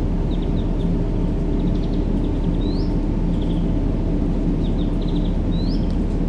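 Steady low rumbling sleep noise for babies, with small birds chirping over it in short trills and two quick upward-sliding calls, about a third of the way in and near the end.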